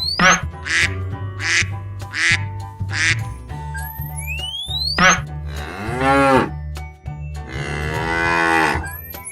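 Cartoon animal sound effects over a children's music backing: rising whistle glides, a run of about four short duck quacks, then two cow moos, the second one longer.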